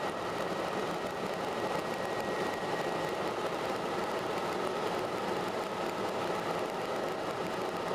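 Helicopter engine and rotor noise, a steady even noise with no change in level.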